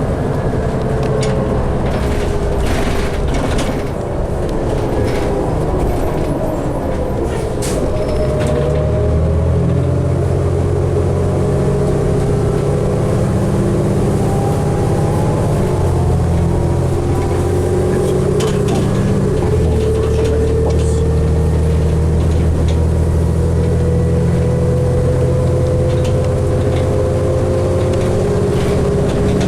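Interior sound of a New Flyer D60LFR articulated diesel bus under way: a steady low engine rumble that grows louder about eight seconds in, with a drivetrain whine that rises slowly in pitch as the bus picks up speed.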